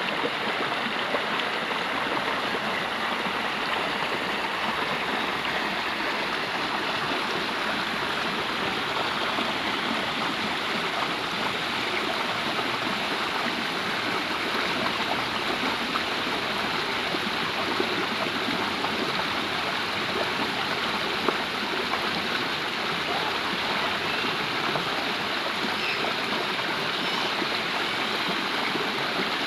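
Stream water running steadily over rocks, a continuous rushing and gurgling.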